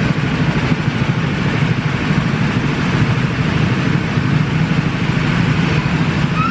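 Go-kart engines idling steadily together, a dense low rumble that holds constant.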